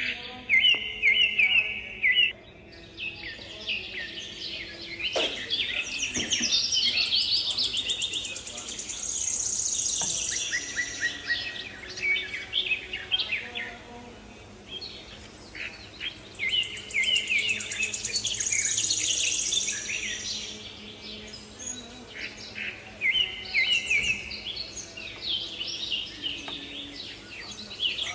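A songbird singing: repeated quick chirping phrases and high trills that come and go throughout. There is a single knock about five seconds in.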